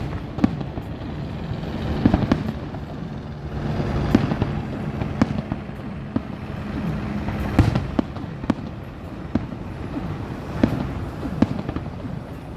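Aerial fireworks exploding in an irregular barrage of sharp bangs and crackles, several a second at times, echoing over a steady background rumble.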